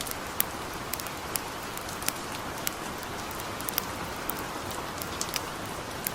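Light rain falling with a steady, even hiss, and a campfire crackling over it in scattered sharp pops, irregular, about two a second.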